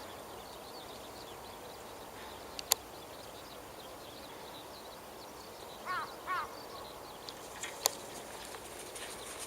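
Outdoor background hiss with faint high bird chirps throughout, two short animal calls in quick succession a little past the middle, and two sharp clicks, one before and one after them.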